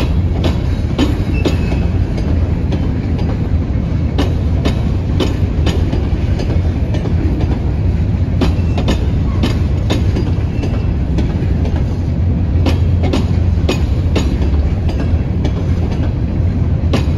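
Empty Herzog hopper cars of a gravel train rolling past: a steady low rumble with frequent, irregular clicks and clanks of wheels over the rail joints.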